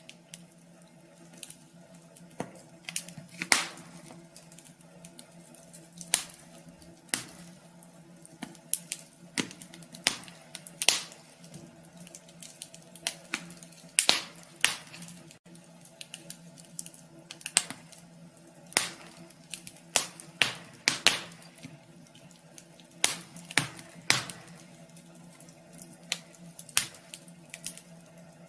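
Wood fire crackling in a wood stove: irregular sharp pops and snaps, a few each second, some louder than others. A steady low hum runs underneath.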